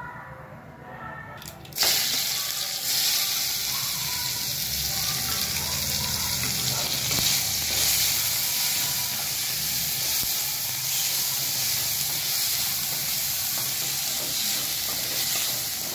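Chopped tomatoes, green chilli, ginger and fresh turmeric hitting hot mustard oil in a kadai: a sudden loud sizzle starts about two seconds in and carries on steadily as the vegetables fry.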